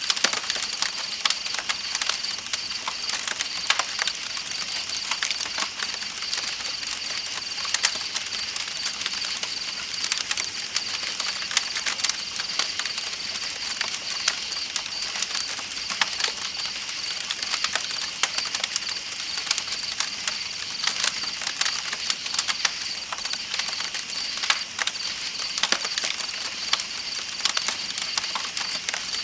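Campfire crackling with frequent sharp irregular pops, over the steady rush of a flowing river and the continuous high trilling of night insects.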